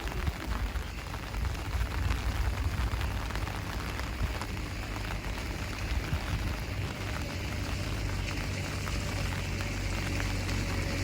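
Heavy rain falling steadily, with many individual drops pattering over a continuous hiss and a low rumble underneath.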